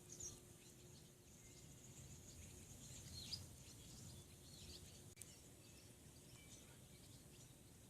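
Near silence: faint outdoor ambience with a few scattered, distant bird chirps.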